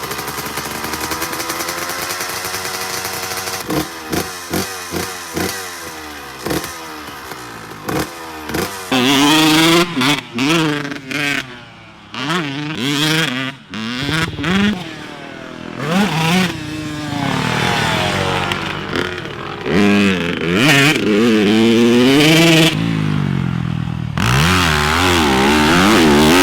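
Dirt bike engine revving hard and backing off again and again, its pitch climbing as it accelerates and dropping sharply when the throttle is chopped. A run of short sharp cracks sounds about four to eight seconds in.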